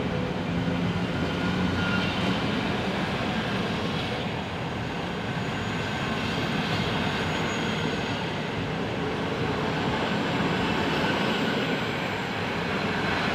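Passenger coaches of a locomotive-hauled train rolling past, a steady, continuous rush of wheels on the rails.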